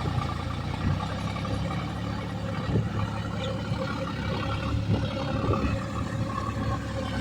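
Heavy diesel engine running steadily under load, with a few short knocks and clunks over it.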